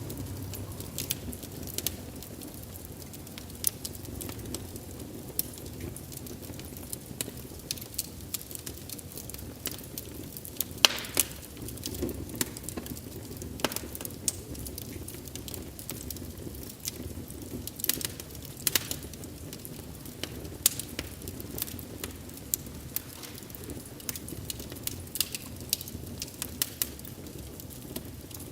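Wood fire burning with a steady low rush of flames and frequent irregular sharp pops and crackles, the loudest crack about eleven seconds in.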